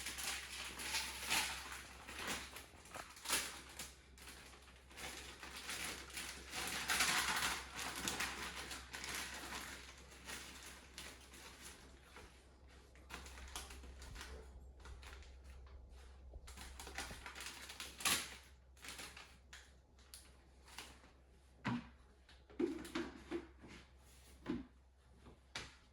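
Salad greens rustling and crackling as they are handled and mixed, densest about seven seconds in. After that come scattered light clicks and knocks.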